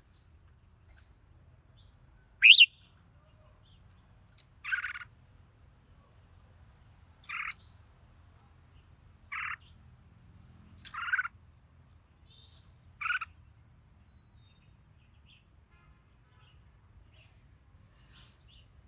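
Red-whiskered bulbul singing: one sharp, loud high call, then five short song phrases about two seconds apart, with a few faint notes near the end.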